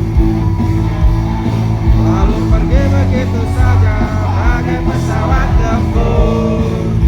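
A live rock band playing loudly, with drums and bass, and a sung melody coming in about two seconds in.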